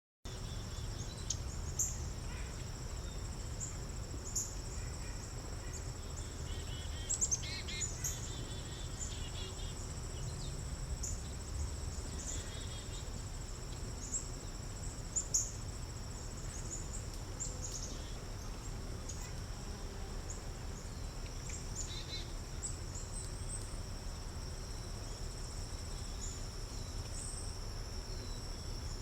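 Natural outdoor ambience: insects keep up a steady high-pitched trill, with short bird chirps scattered throughout over a low background rumble.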